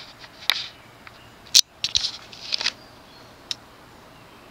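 A few sharp clicks and taps from the fan's 4-speed choke wall control being switched to its medium-low setting. The sharpest click comes about a second and a half in, and a small cluster follows, over a faint steady background.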